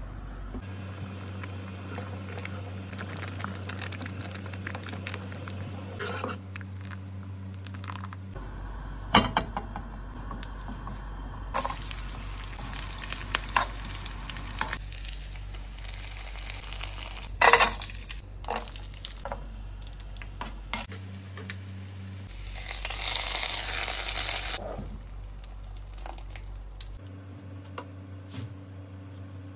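Kitchen cooking sounds: a spatula stirring thick bamboo rice payasam in a nonstick pan, and coconut pieces sizzling as they fry in ghee, with sharp knocks of utensils against the pan. About three quarters through, a louder hiss lasts a second or two.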